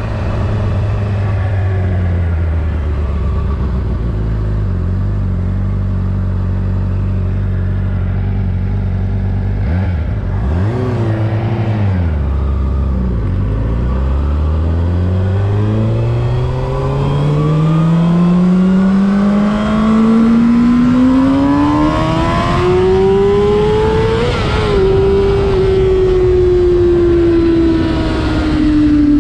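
Honda CBR600RR inline-four engine under way: a steady cruising note for about ten seconds, a short dip and blip around ten seconds, then the revs climb steadily for about ten seconds under hard acceleration, drop sharply on an upshift, and sink slowly as the bike eases off near the end.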